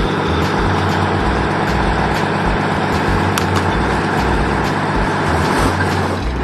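Heavy truck engine running steadily with a low, uneven rumble.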